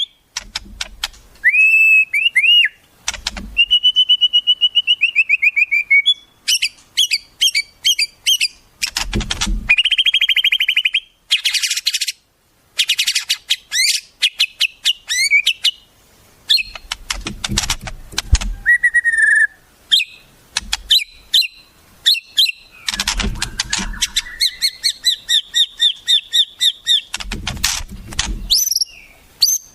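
Wild songbird calls in quick succession: clear whistles, rising and falling phrases, fast trills and rapid repeated chirps, changing every few seconds, with a few brief low rumbles underneath.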